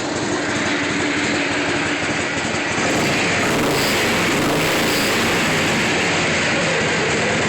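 1999 Harley-Davidson Heritage Softail's V-twin engine running steadily on partial choke; it gets a little louder about three seconds in.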